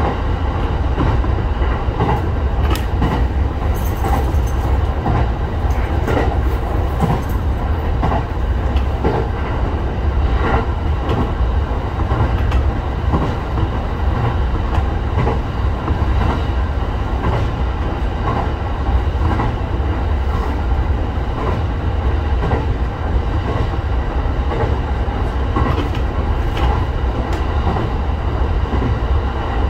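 Electric local train running along the line, a steady rumble of wheels on rail with faint rhythmic clicks over the rail joints, heard from inside the leading car.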